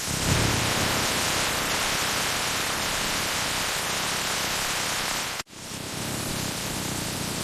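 Steady full-range hiss, broken by an abrupt cut about five and a half seconds in, after which it resumes slightly quieter.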